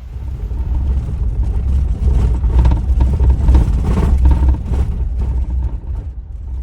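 Vehicle driving, with a steady low rumble of engine and road noise.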